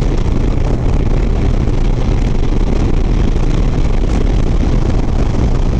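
Harley-Davidson Sport Glide's V-twin engine running steadily at highway cruising speed, under a constant rush of wind and road noise on the rider's microphone.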